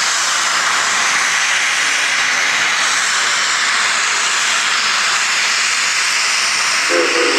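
Geared steam logging locomotive venting steam in a steady, loud hiss. Near the end its steam whistle starts, a chord of several low tones sounded together.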